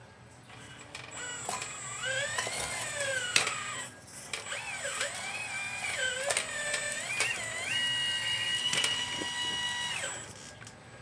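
Electric motors of a 1:12 scale RC model excavator whining as it works, the pitch rising and falling with the motor speed and broken by a few clicks. The whine holds at one steady pitch for a couple of seconds near the end, then stops.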